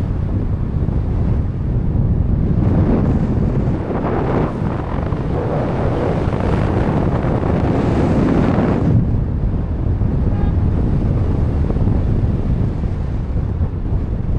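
Wind rushing over the microphone of a camera carried in a tandem paraglider flight. It swells louder for several seconds, then eases back to a steadier rush.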